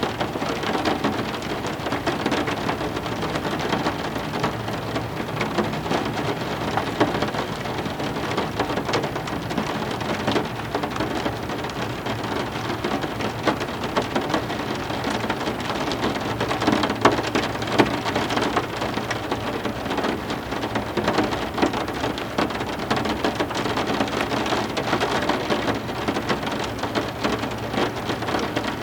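Heavy rain falling steadily, a dense haze of noise speckled with countless individual drops striking hard surfaces.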